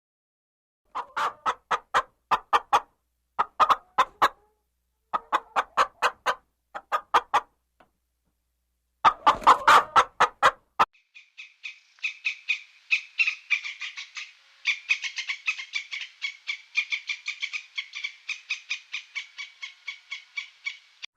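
Hen clucking in four quick runs of short pulses, then about ten seconds of rapid, higher-pitched chirping calls.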